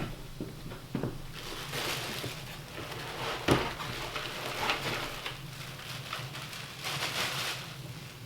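Packaging being handled and opened around a new tool: irregular crinkling and rustling with scattered clicks, and one sharp knock about three and a half seconds in.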